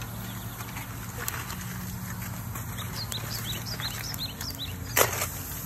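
Small birds chirping in quick, short calls through the middle, over a steady low hum, with a single sharp click about five seconds in.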